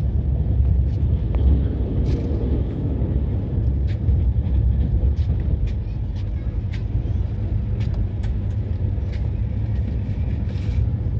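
Indian Railways passenger train running, heard from inside the coach: a steady low rumble with scattered sharp clicks and knocks.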